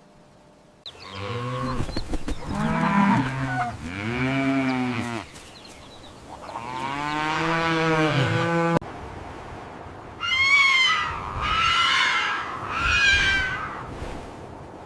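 Three long, low-pitched animal calls, each rising and falling in pitch. After a sudden cut come three shorter, much higher-pitched calls from a different animal.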